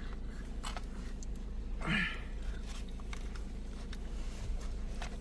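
Steady low rumble inside a car cabin with faint scattered clicks and taps, and one short rising vocal sound about two seconds in.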